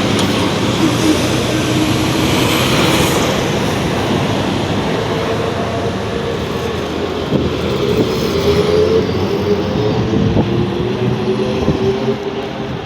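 ZiU-682G trolleybus on the move: the traction motor's whine climbs in pitch over the first several seconds, then holds and sinks slightly, over steady road and body noise with a few knocks and rattles.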